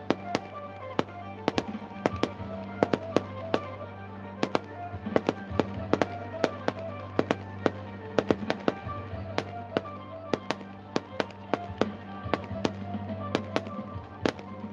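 Fireworks going off in a rapid, irregular run of sharp bangs and cracks, several a second, with music playing underneath.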